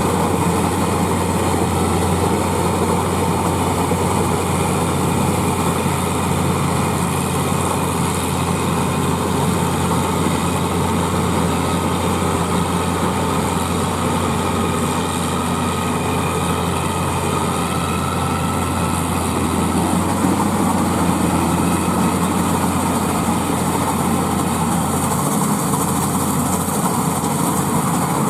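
Claas Crop Tiger 30 combine harvester running steadily with a constant engine drone, working through a paddy crop.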